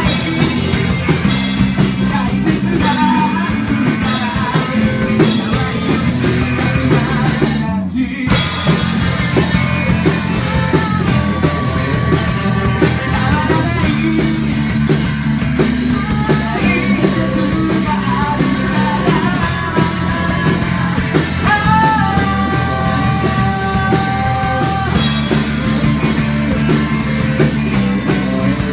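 Rock band playing a song, with sung vocals over guitar; the sound drops out briefly about eight seconds in.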